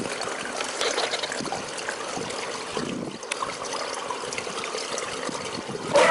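Water trickling and splashing steadily, with many small clicks and a brief lull about three seconds in.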